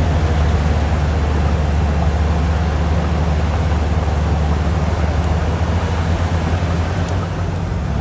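Komatsu D375 crawler bulldozer working under load: a loud, steady, deep engine rumble mixed with the noise of its moving tracks.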